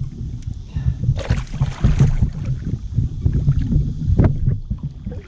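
Water splashing beside a kayak as a large blue catfish is worked toward the net, with a bigger splash about a second in. Wind rumbles on the microphone underneath.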